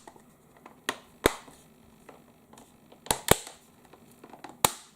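Plastic clips of a TomTom Go 500 navigation device's case snapping into place one by one as the screen is pressed back on: about five sharp clicks at irregular spacing, two of them in quick pairs.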